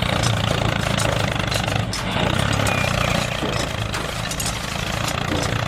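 Small mini-tractor engine running steadily with a rapid knocking beat.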